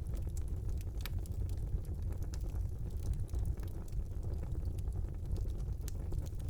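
Wood fire burning in a fireplace: a steady low rumble of flames with scattered crackles and pops, the sharpest about a second in and near the end.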